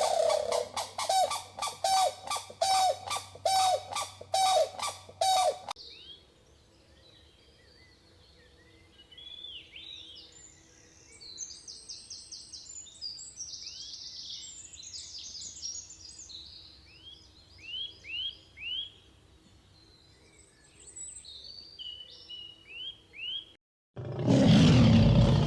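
A fast, even series of loud repeated animal calls for about six seconds, then small birds chirping and whistling with short falling notes, ending in a sudden loud burst of sound near the end.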